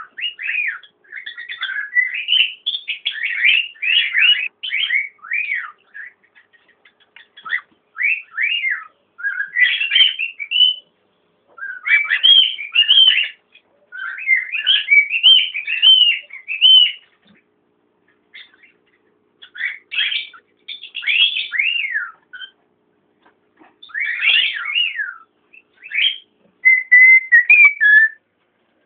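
Cockatiel whistling a warbling song: rapid runs of clear up-and-down whistled notes in phrases of a few seconds, with short pauses between phrases.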